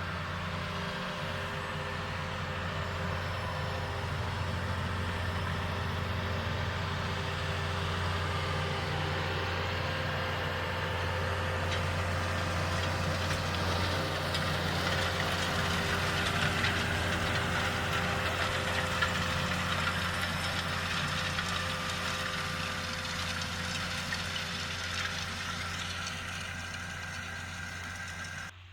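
John Deere 6920S tractor's six-cylinder diesel engine running steadily, growing louder toward the middle and then fading. The sound cuts off abruptly near the end.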